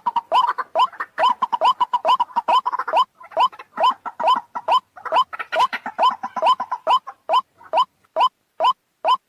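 White-breasted waterhen calling: a fast run of short rising notes, crowded and overlapping at first, then evenly spaced at about two and a half a second from about seven seconds in.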